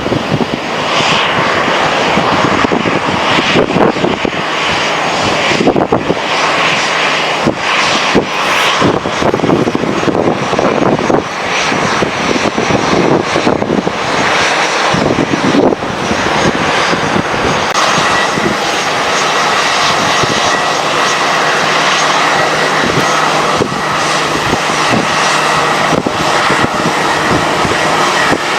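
Jet airliner engines running with a loud, continuous roar; a steadier high whine comes in about two-thirds of the way through.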